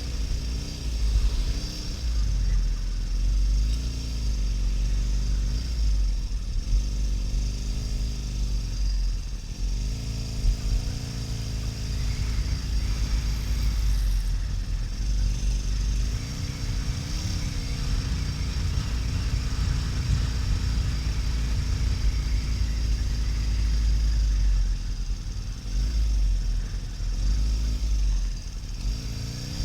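Harley-Davidson XL1200N Nightster's air-cooled V-twin running under way, its pitch rising and falling as the speed changes, under a heavy low rumble of wind on the microphone.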